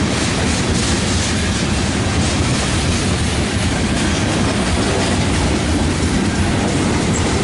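Freight train cars rolling past close by: tank cars and centerbeam flatcars loaded with lumber. Their steel wheels make a steady rumble and clatter on the rails, with the clickety-clack of wheels over rail joints.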